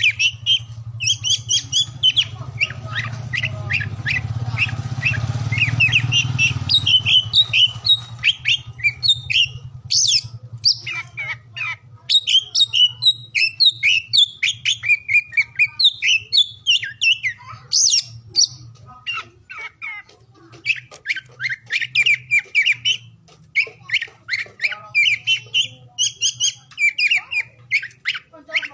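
Oriental magpie-robin (kacer) singing: rapid, varied chirps and whistled phrases in long bursts with short breaks, over a steady low hum.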